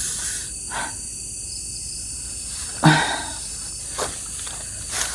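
Steady chorus of crickets and other night insects. A short breathy burst comes about three seconds in, with a couple of faint clicks after it.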